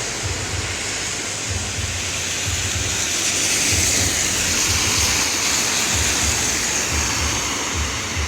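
Wind buffeting the microphone, uneven low rumbling over a steady rushing hiss.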